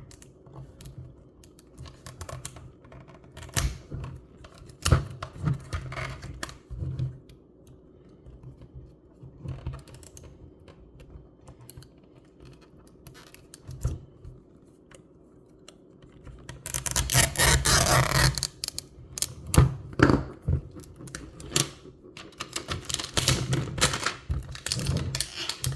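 Scattered clicks and taps of a small plastic toy refrigerator being handled and picked at, with about two seconds of scratchy rustling near the end as protective paper is peeled off it.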